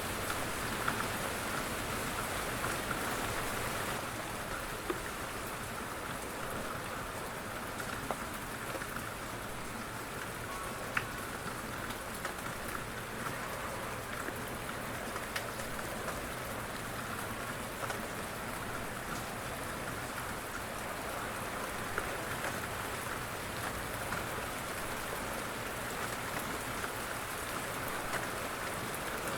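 Light rain falling steadily on a surface, a continuous patter with a few sharper drips standing out now and then.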